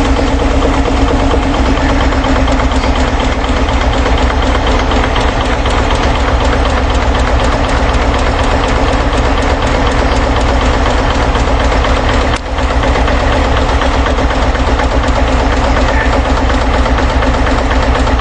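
Small tractor's engine being cranked over by its starter in two long spells, with a brief break about twelve seconds in, to spread its cold, too-thick straight 30-weight oil before it is started.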